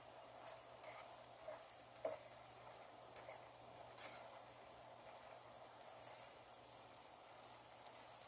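Chicken pieces frying in oil in a pan, a steady sizzle, with a few faint clicks in the first half.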